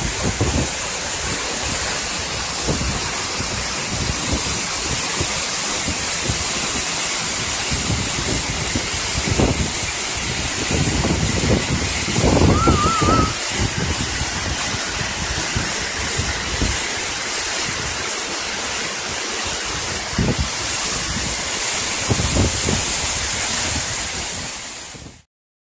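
Steady rushing of a waterfall, with wind buffeting the microphone in irregular low rumbles. A brief wavering whistle sounds about halfway through, and the sound cuts off abruptly just before the end.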